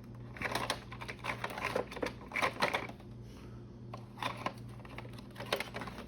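Light clicking and clacking of small hard plastic ink pad cases being handled and picked through, in clusters of rapid taps that thin out to a few single clicks in the second half.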